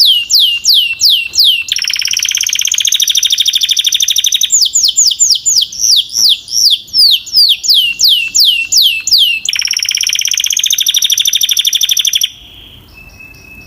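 A Belgian canary singing loudly. Runs of quick whistled notes, each falling in pitch at about five a second, alternate with two fast rolling trills. The song cuts off suddenly near the end, leaving only faint, quieter chirps.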